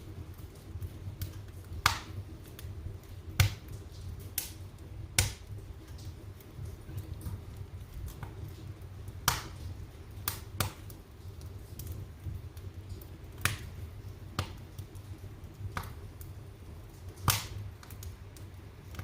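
Wood fire burning in a fireplace, crackling with irregular sharp pops every second or two over a low steady rumble.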